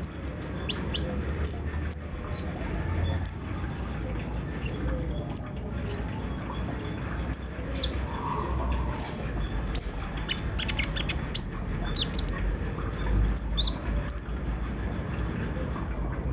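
Sunbird (konin, kolibri ninja) calling in short, sharp, high chirps, about one every half second to a second. A quick run of rapid notes comes around ten seconds in. A low steady hum runs underneath.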